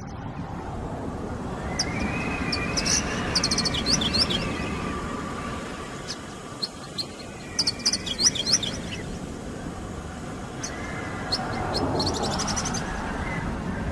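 Wind blowing steadily across open ground, with a Javan bush lark singing its courtship song in three bouts of quick, high chirps and trills.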